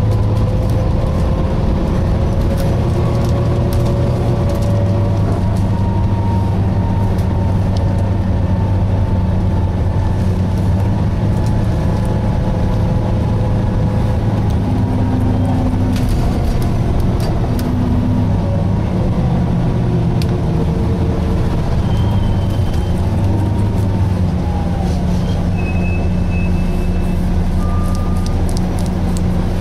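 Volvo B9TL double-decker bus heard from inside while driving: a steady low engine drone, with faint whines that drift in pitch, a few short high-pitched tones near the end, and scattered clicks and rattles.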